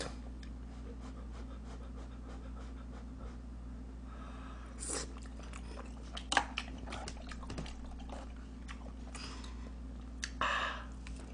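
Close-up eating sounds: soft chewing of spicy rice cakes and a seaweed rice ball, with a few sharp clicks and a couple of short breaths, over a steady low hum.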